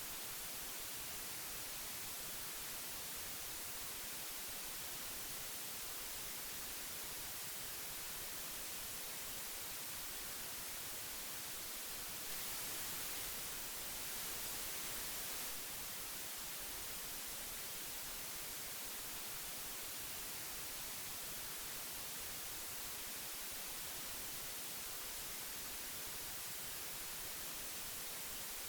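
Steady hiss of old magnetic tape, an even high-pitched noise with no tones, growing slightly louder for a few seconds around the middle.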